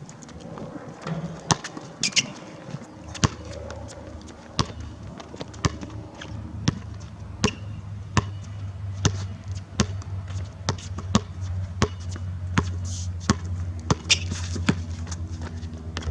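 A basketball being dribbled and bounced on a court: a run of sharp single bounces, about one a second at first and quickening to about two a second in the second half. A low steady hum lies underneath.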